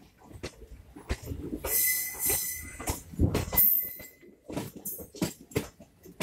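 Passenger train heard from on board, running through a station: wheels knock and clatter unevenly over the rails and points, with bursts of hiss and a thin high squeal lasting a couple of seconds in the middle.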